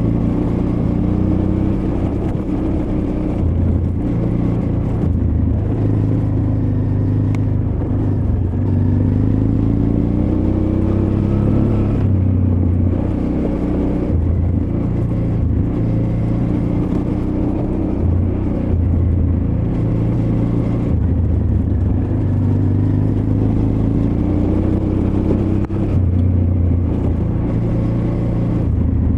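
Honda Transalp XL600V's V-twin engine pulling the bike along at fairly low revs. Its pitch climbs and drops again several times as the throttle is opened and eased off.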